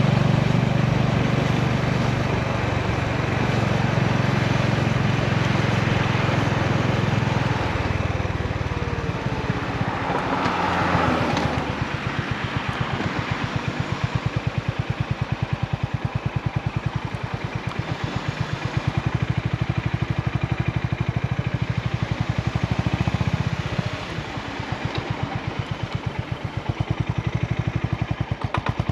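Honda GB350's air-cooled single-cylinder engine and exhaust running steadily. About eleven seconds in the revs drop, and for the rest of the time the exhaust goes in slow, evenly spaced pulses as the bike slows or idles.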